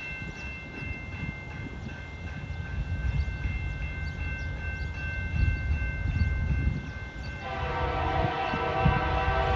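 A grade-crossing warning bell ringing steadily over a low rumble, then about seven and a half seconds in a CN freight locomotive's air horn starts sounding a long chord as the train approaches.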